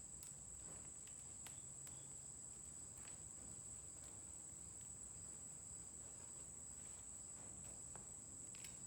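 Quiet, steady high-pitched trill of insects, with a few faint scattered clicks from steel cable strands being wrapped by hand.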